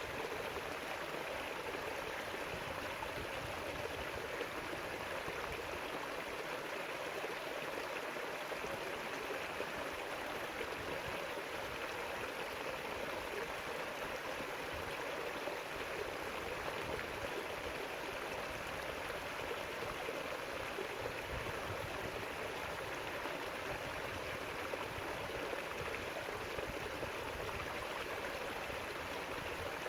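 River water rushing and burbling steadily over its bed, a constant even rush with no breaks.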